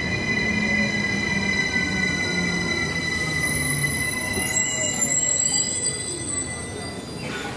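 Swiss electric passenger train slowing at a platform: wheels and brakes squeal high and steady over a low rumble, while a whine falls steadily in pitch as it decelerates. It grows quieter near the end.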